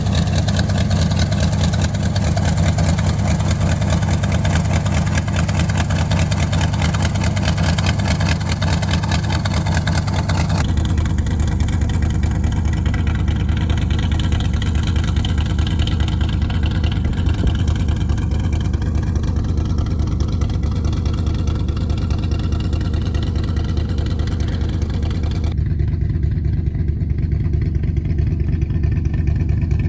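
1971 Ford F-250 Highboy's engine running steadily after a below-zero cold start, warming up. Its sound changes abruptly twice, about 11 and 25 seconds in.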